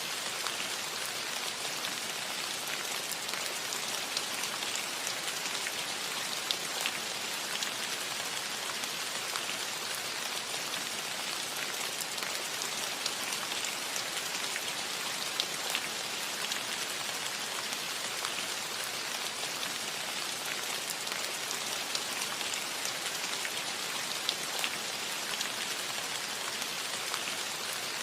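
Steady rain falling on a metal roof, a continuous hiss full of small scattered drop ticks.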